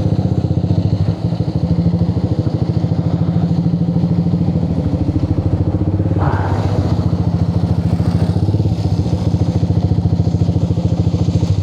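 Motorcycle engine idling steadily with an even, rapid putter.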